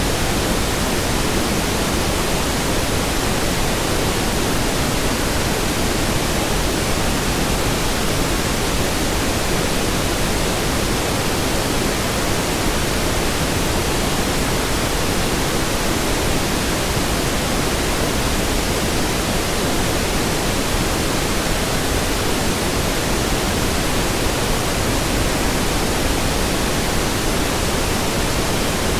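Steady pink noise: an even, unbroken hiss across all pitches, with no change in level.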